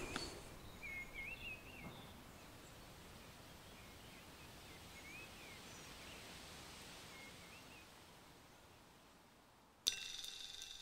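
Quiet outdoor ambience with a few birds giving short, warbling chirps. Just before the end, a sudden bright ringing tone strikes in and holds.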